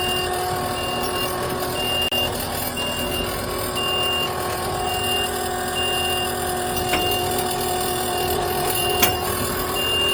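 A reversing machine's backup alarm beeping about once a second over its running engine. Two sharp knocks come through, about seven and nine seconds in.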